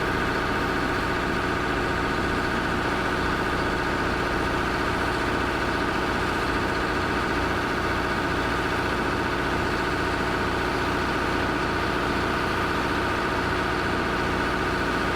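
An engine running steadily at a constant speed, with a fast, even low pulse and no change in pitch or level.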